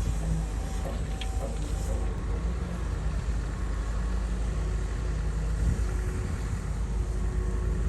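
Komatsu bulldozer's diesel engine running steadily under load with a deep, even rumble.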